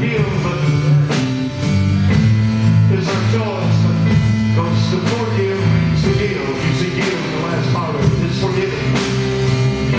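Live gospel praise band playing with a heavy bass line and steady drum beat, piano, and a voice singing over it.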